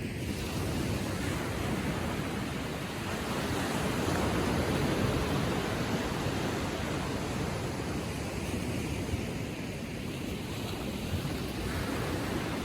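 Small ocean waves lapping gently on the shore. The surf swells soon after the start, is loudest around the middle, eases, and builds again near the end.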